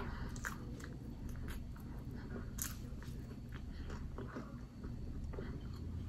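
A person chewing and biting crinkle-cut french fries: faint, irregular crunches and small mouth clicks.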